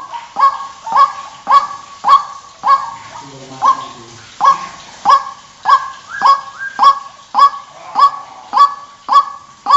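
White-breasted waterhen (ruak-ruak) lure call: a loud, harsh note repeated about twice a second in a steady series, with a short break about three seconds in.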